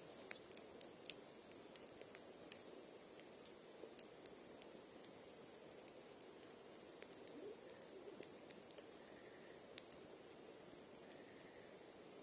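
Wood campfire crackling: faint, irregular sharp pops and snaps over a soft steady rush.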